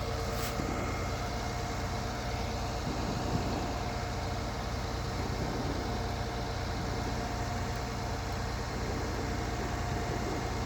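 Recovery truck engine idling steadily, with a constant low hum and a thin, even whine over it.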